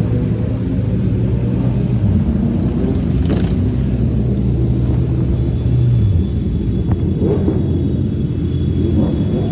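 Superbike engine running on the move, its pitch holding steady and then dropping about two seconds in and again about six seconds in, over a low rumble.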